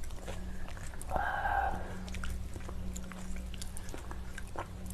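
Close-up mouth sounds of someone chewing raw salmon sashimi: soft, wet clicks and smacks. About a second in comes a short, high-pitched hum.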